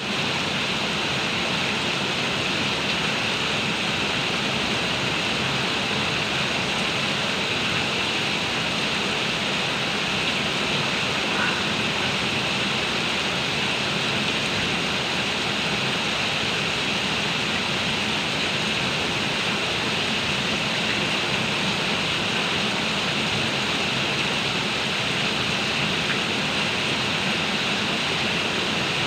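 Heavy rain pouring down in a steady, dense hiss that keeps an even level throughout.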